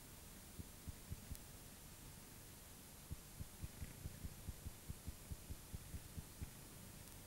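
Faint, low thumps of a racing motorcycle engine firing: a few uneven beats, then from about three seconds in a steadier run of about four to five beats a second as it starts and runs slowly.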